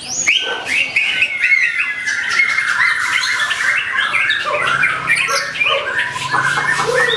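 White-rumped shama (murai batu) singing without a break: a dense string of quick harsh chattering notes mixed with short rising whistles. This is the kind of provoking shama song that is played to get other shamas singing.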